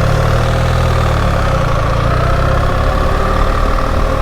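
BMW R 1300 GS boxer-twin engine running steadily at low speed, with a steady whine above the low engine note.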